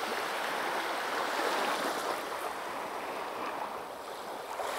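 Small sea waves washing over and draining back between beach stones: a steady rushing wash that swells and eases slightly, a little softer about four seconds in.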